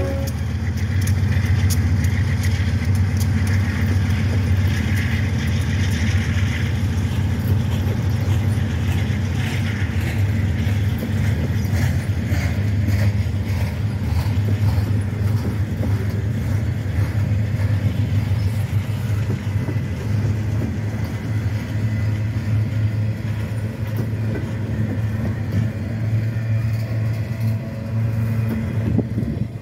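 Union Pacific double-stack intermodal container train rolling past at close range: a steady low rumble of wheels on the rails, with clicking and clattering from the wheels through the middle.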